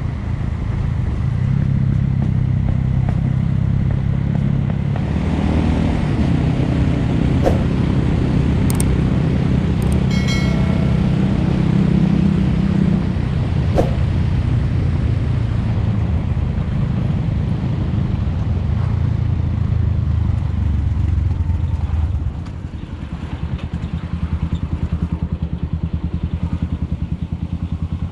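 Suzuki Thunder motorcycle engine running on the move, its pitch rising and falling with speed, with a few sharp clicks around the middle. It gets quieter about 22 seconds in as the bike eases off.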